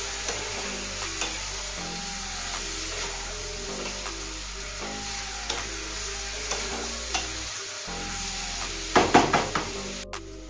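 Chicken pieces and chopped onion sizzling in hot oil in a frying pan as they are stirred with a wooden spatula, with light scrapes of the spatula on the pan. A quick cluster of louder knocks comes near the end. Soft background music plays under it.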